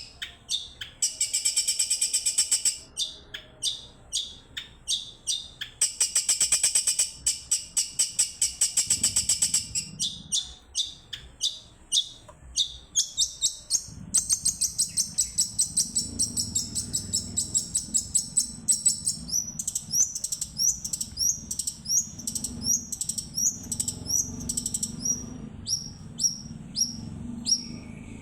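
Long-tailed shrike (cendet/pentet) singing its rapid-fire 'tembakan' calls. There are fast volleys of high, quickly repeated notes, two dense trilled bursts in the first third, then quick strings of short notes that slide downward.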